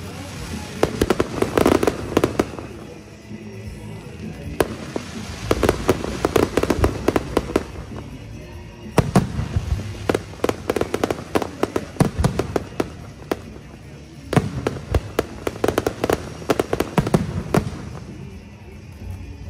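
Aerial fireworks going off in rapid barrages of sharp bangs and crackles, in four volleys with short pauses between them.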